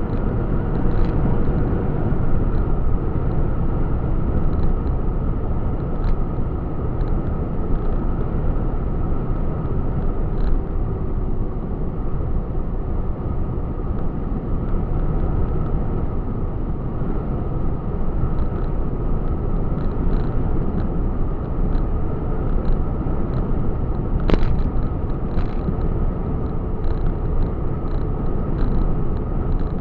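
Truck on the road: a steady engine and road-noise rumble, with scattered light clicks and rattles and one sharper click about 24 seconds in.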